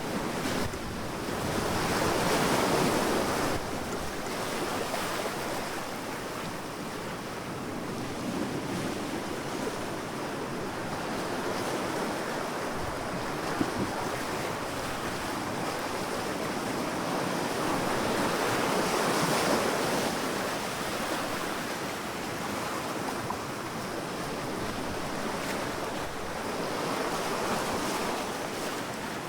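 Sea waves breaking and washing on a beach, a steady rush of surf that swells about two seconds in and again a little past the middle.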